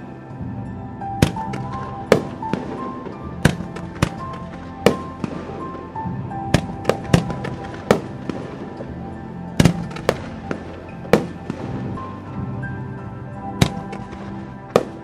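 Aerial firework shells bursting with sharp bangs at irregular intervals, roughly one a second, over music with a sustained melody.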